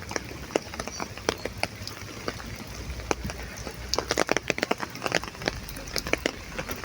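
Raindrops striking an umbrella overhead: many irregular sharp ticks over a steady hiss of rain.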